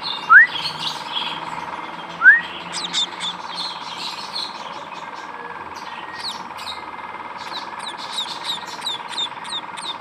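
Young pipit birds chirping, with many short high chirps that come faster, about two a second, in the second half. Two loud rising whistles sound near the start, and a steady faint hum runs underneath.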